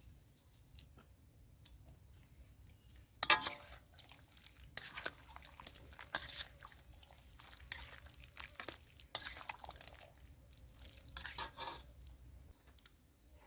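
A person chewing and crunching food with irregular smacks and clicks, the loudest about three seconds in.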